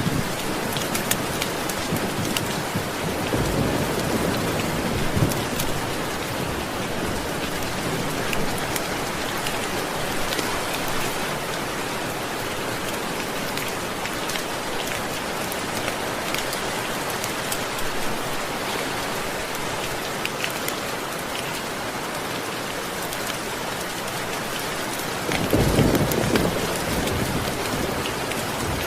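Steady rain falling, with scattered small crackles of a wood fire. A low rumble of thunder comes a few seconds in, and a louder rumble near the end.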